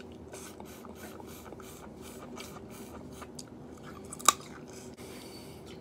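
A person chewing seafood close to the microphone: a run of short wet smacks and clicks, a few a second, with one sharp crack about four seconds in.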